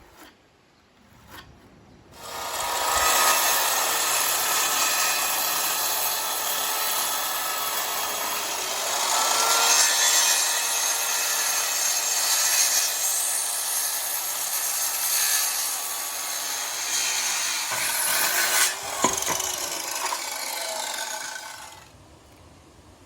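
A power saw cutting through a wooden board in one long continuous cut. It starts about two seconds in and stops a second or so before the end.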